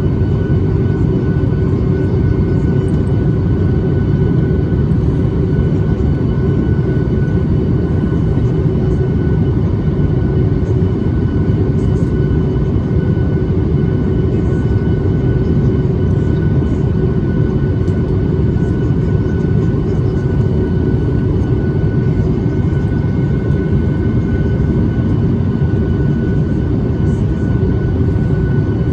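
Steady in-flight cabin noise of a Boeing 737 MAX 8 heard from a seat over the wing: a low rush of airflow with the CFM LEAP-1B turbofans' steady hum.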